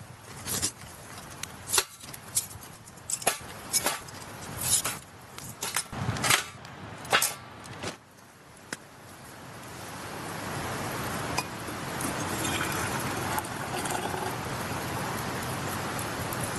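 Hard sticks of ogatan charcoal clinking and knocking against each other and the metal fire stand as they are laid in, a quick run of sharp clicks. After a short lull this gives way to a steady rushing noise that rises over a couple of seconds and holds.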